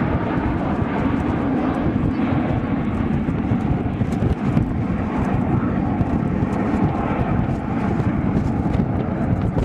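Fixed-wing aircraft in flight, its engine noise steady and even, with most of its weight in the low range.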